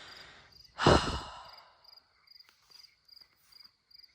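A person breathing in, then letting out a heavy sigh into the microphone about a second in. Faint crickets chirp steadily in the background.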